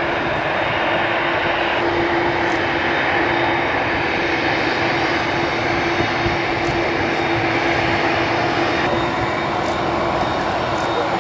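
Airbus A321 jet engines running: a continuous rushing noise with a steady hum, holding an even level throughout.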